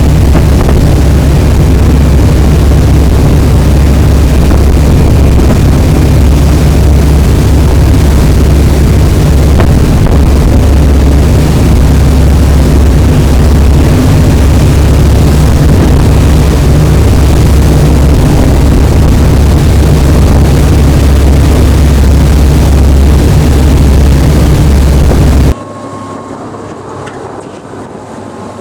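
Loud, steady low rumble of a moving vehicle. About 25 seconds in it cuts off abruptly to a much quieter hum with a faint steady high tone.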